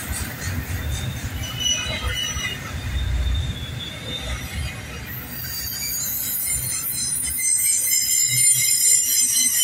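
Double-stack intermodal freight train's well cars rolling past close by, a low rumble of wheels on rail. Wheels squeal throughout, and the high-pitched squeal grows louder and denser from about halfway through.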